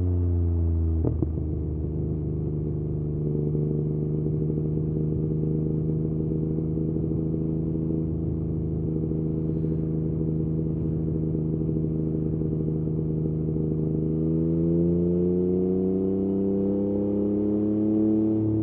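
Yamaha MT-09's three-cylinder engine running through an Akrapovič exhaust while riding. About a second in the pitch drops sharply as it shifts gear; it then holds at a steady speed, and near the end the pitch climbs as it accelerates.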